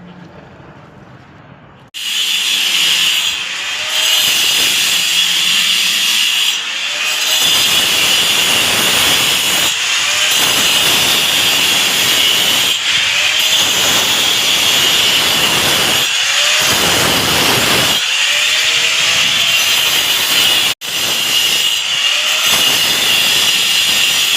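Handheld power cutter cutting grooves into a marked wall for concealed pipes: a steady high whine over grinding noise. It starts suddenly about two seconds in, eases off briefly every few seconds as the blade is worked along, and cuts out for an instant near the end.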